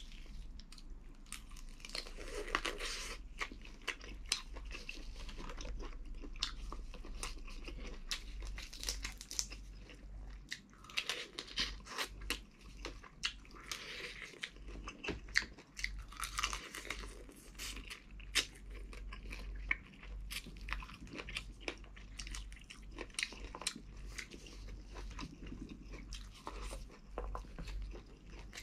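Close-miked chewing and biting of boiled crab meat and shrimp with rice, with irregular crunches and clicks as crab shell is cracked and pulled apart by gloved hands. A faint steady low hum runs underneath.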